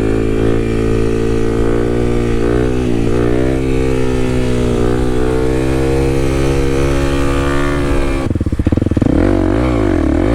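Kawasaki KLX300's single-cylinder four-stroke engine running at a steady throttle while riding. About eight seconds in the throttle is chopped and the engine drops to a pulsing putter before it picks up again near the end.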